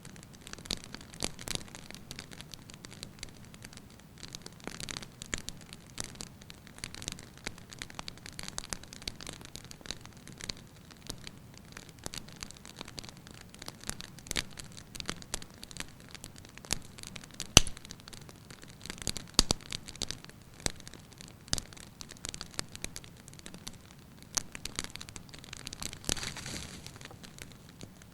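Wood fire burning with steady crackling and irregular pops of the logs, and one much louder pop about two-thirds of the way through.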